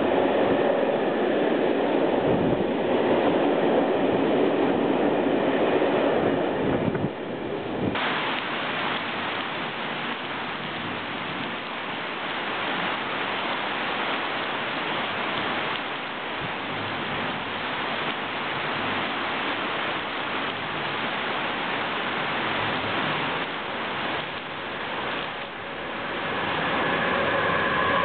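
A freight train running past on wet track, then after a sudden cut, heavy rain falling steadily. Near the end another freight train, an electric locomotive hauling car-carrier wagons, comes up and passes with a swelling rumble and a whine.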